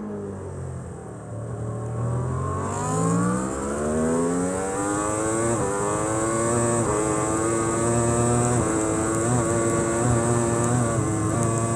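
Race superbike engine heard from onboard: the revs drop off, then the engine is opened up and accelerates hard, with quick upshifts, before holding high revs at speed.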